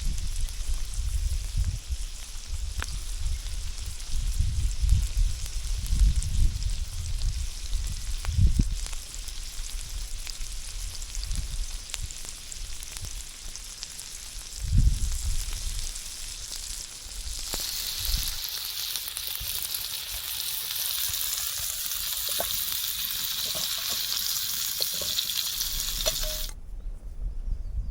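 Food sizzling in a pan, with wind buffeting the microphone in low gusts. About two-thirds of the way in the sizzle turns into a much louder, bright hiss, which cuts off suddenly near the end.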